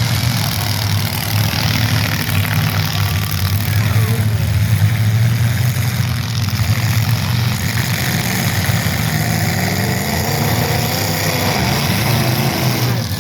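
Engines of old demolition derby cars running, a steady low engine note, with pitch rising and falling in the second half as the engines are revved.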